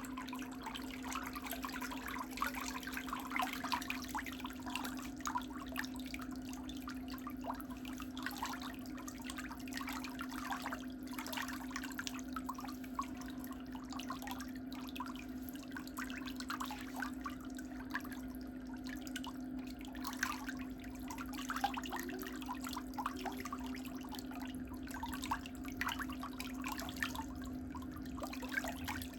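Pedicure tools scraping and clicking irregularly against toenails and skin, over a steady low hum.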